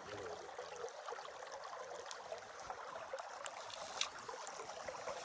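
Trout stream running steadily, with a light tick about four seconds in.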